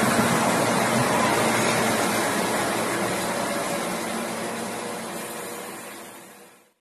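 Passenger train rolling along the platform and pulling away, a steady rumble and hiss that dies away near the end.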